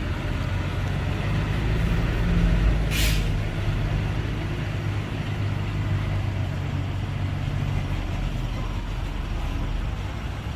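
Heavy diesel engine of a dump truck running with a steady low drone, getting louder about two seconds in. A short hiss of air, like an air brake, comes about three seconds in.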